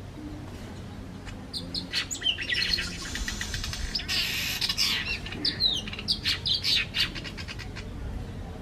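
Birds chirping and calling: a run of quick, overlapping chirps and short falling notes starting about one and a half seconds in, thickest in the middle and ending about a second before the end.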